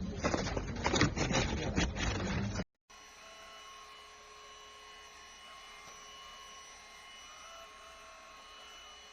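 A cordless stick vacuum cleaner running, its motor noise mixed with quick crackling clicks as it picks up debris. It cuts off suddenly and is followed by a faint, steady hum with a few thin steady tones.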